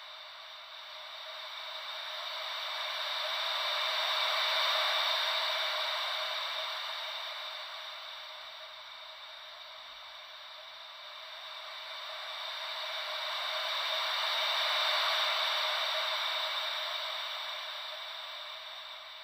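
Gentle ocean-wave white noise: a thin, even hiss that slowly swells and fades like waves rolling in. It rises twice, about ten seconds apart.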